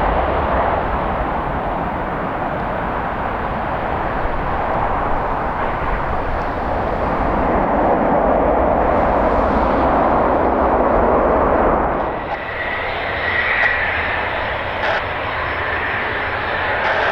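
Airliner jet engine noise heard across an airfield, with heavy low wind rumble on the microphone. About twelve seconds in, the rumble drops away and a steady high engine whine is left.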